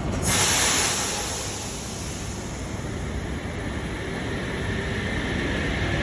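Sydney Trains H set electric train starting to depart: a sharp burst of hiss about a quarter second in, fading within a second, then a steady rumbling noise that slowly grows louder as the train gets under way.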